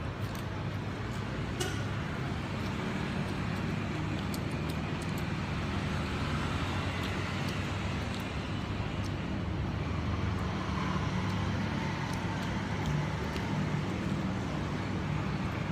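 Steady low background rumble, like road traffic, with a few faint small clicks over it.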